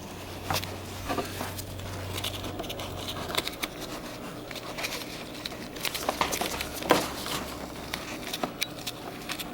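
Scattered light clicks, taps and rustles of hand work on a motorcycle's front brake line and its fittings, with a faint low hum during the first few seconds.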